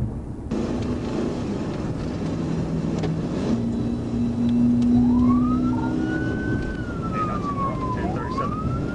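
Police cruiser in pursuit: loud engine and road noise with a steady low drone. About six seconds in its siren starts a slow wail that rises and falls, twice.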